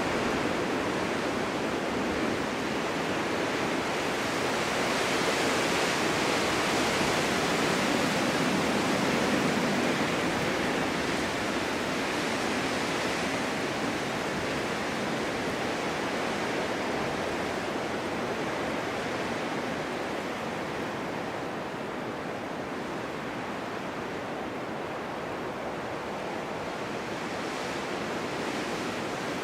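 Snowstorm wind blowing in a steady rush, swelling a few seconds in and slowly easing off through the second half.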